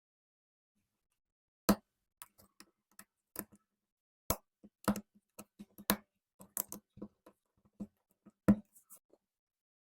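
Plastic Lego bricks clicking and tapping as pieces are handled and pressed together: scattered sharp clicks, five of them louder than the rest.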